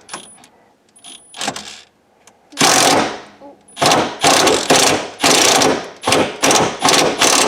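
Power impact wrench hammering at a seatbelt anchor bolt in trigger bursts: two short bursts, then from about two and a half seconds in a run of longer bursts, each about half a second to a second, as the bolt is worked loose.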